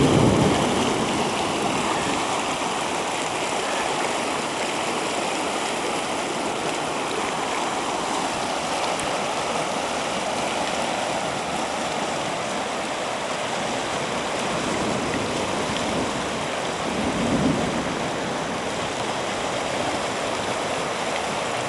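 Steady rushing of flash-flood water flowing like a river down the street and across a front yard and sidewalk after a heavy downpour.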